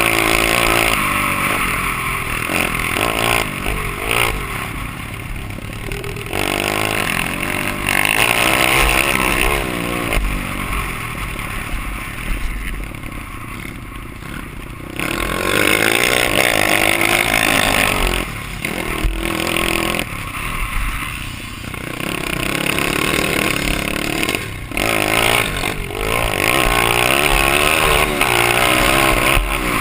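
Dirt bike engine being ridden hard, its pitch climbing and dropping again and again as the throttle is opened and shut through the gears and corners.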